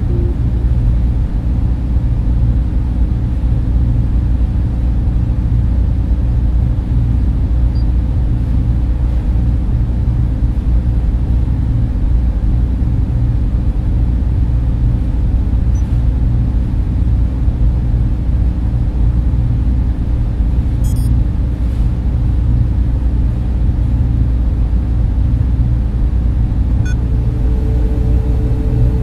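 Data center server room hum: the cooling fans of server racks make a steady low rumble with several constant tones in it. A second steady tone comes in near the end, and there are a couple of faint ticks.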